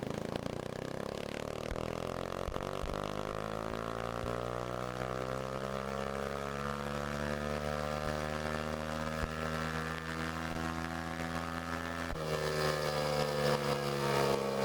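Kawasaki KLX140's single-cylinder four-stroke engine running, its pitch rising slowly and then holding steady, with a change in tone about twelve seconds in.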